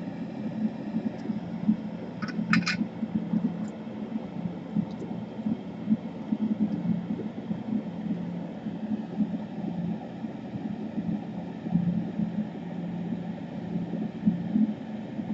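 Steady low hum of a fan or air-conditioning unit running, with a brief high-pitched sound about two and a half seconds in.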